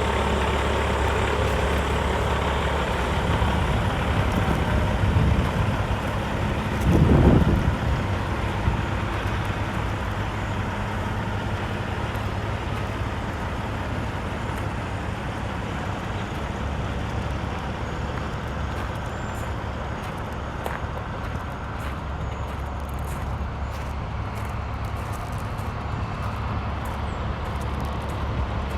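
Heavy truck's CAT C15 diesel engine running steadily at idle, with a brief louder swell about seven seconds in.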